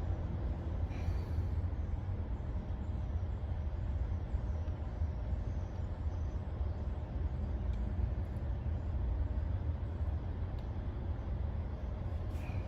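Steady low background rumble with a faint hiss above it and no distinct events.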